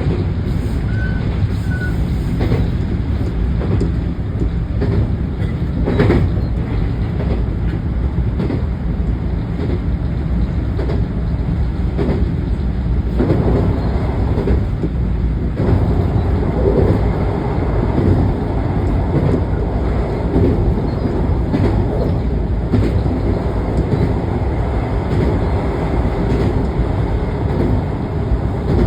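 Local train running along the line, heard from inside the car: a steady rumble of wheels and running gear, with occasional clicks of the wheels passing over rail joints.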